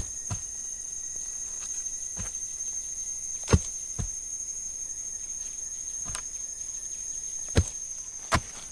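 A steady high-pitched drone of forest insects, with a handful of sharp knocks at irregular intervals, the loudest about three and a half seconds in and another near the end.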